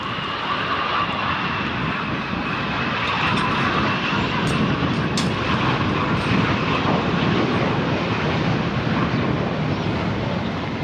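Jet aircraft engines running as a plane passes: a steady rush with a high whine that slowly falls in pitch, growing a little louder toward the end.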